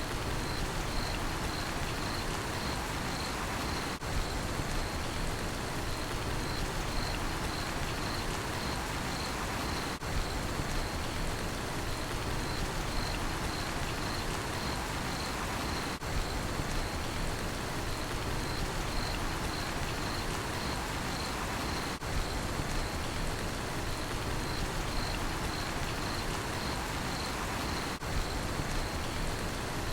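Steady rain falling, with a cricket chirping high above it in an evenly spaced, unbroken series of chirps.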